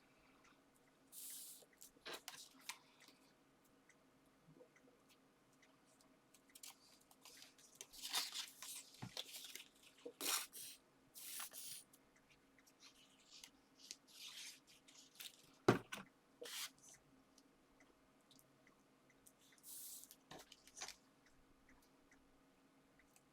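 Paper and card being handled and layered by hand: short, intermittent rustles and slides of paper with small taps. One sharper knock comes about two-thirds of the way through.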